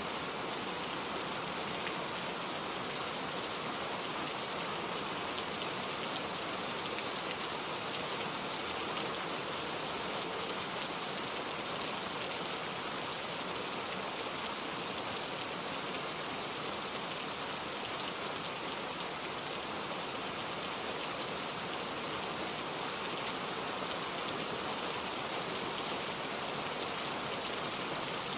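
Steady rain falling, a constant hiss with many small drop ticks in it and one slightly louder drop about twelve seconds in.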